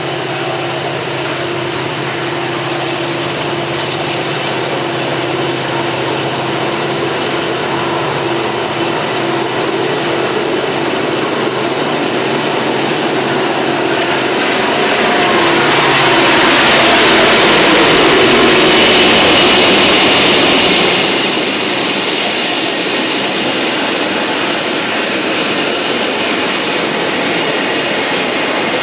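Freight train passing: two diesel locomotives approach with a steady engine drone that grows louder, are loudest a little over halfway through as they go by, then give way to the steady rolling of double-stack container cars on the rails.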